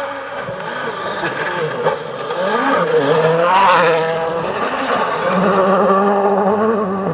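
World Rally Car's 1.6-litre turbocharged four-cylinder engine running hard, its note climbing and dropping through gear changes, loudest a few seconds in.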